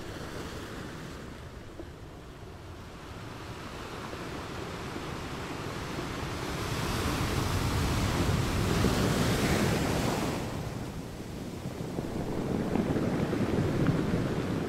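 Rushing airflow buffeting the microphone of a camera mounted on a microlight in flight, with no engine note standing out. It swells louder about halfway through, eases, and builds again near the end.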